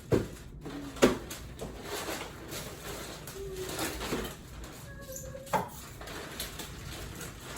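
Three sharp knocks of containers and dishes being set down and handled in a kitchen: one at the start, one about a second in, and one about five and a half seconds in, with faint clatter and brief short tones between them.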